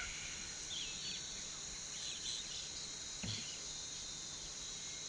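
Insects buzzing steadily at two high pitches, with a few faint, short bird chirps scattered over it.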